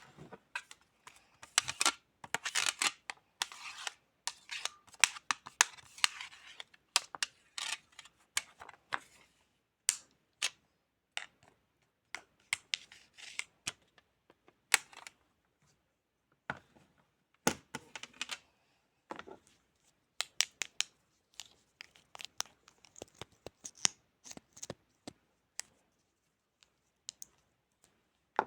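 Close-up ASMR handling sounds: irregular sharp clicks, taps and short scratchy rustles and rasps, in clusters with brief quiet gaps between them.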